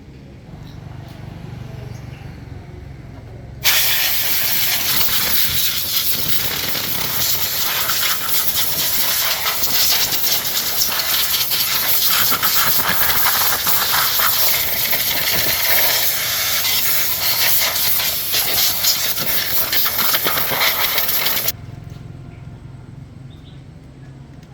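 A loud, steady hiss of pressurised air that switches on suddenly a few seconds in and cuts off sharply about eighteen seconds later, with a faint low hum beneath before and after it.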